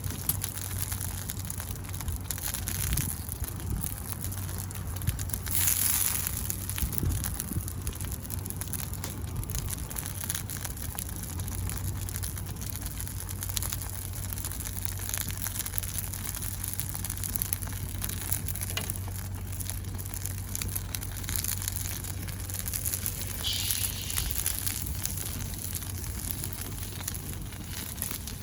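Wood fire crackling: a steady hiss with scattered small pops and crackles, and a brief louder rush about six seconds in.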